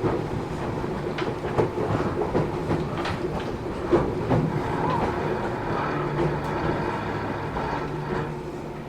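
Running sound heard inside the cabin of a Matsumoto Electric Railway 3000 series electric train (ex-Keio 3000 series): steady rolling and motor noise with irregular clicks of the wheels over rail joints, growing quieter near the end.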